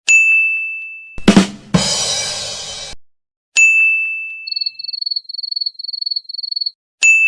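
Sound-effect clips separated by a bright single-tone ding, three dings in all. After the first ding comes a drum-kit "ba-dum-tss": two quick drum hits, then a cymbal crash ringing for about a second. After the second ding, a cricket chirps in about six short pulsed trills over two seconds.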